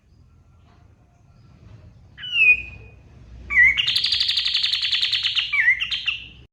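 Kapas tembak songbird singing. A short, sharp falling call comes about two seconds in, then a long, fast, rattling trill with quick notes at its start and end.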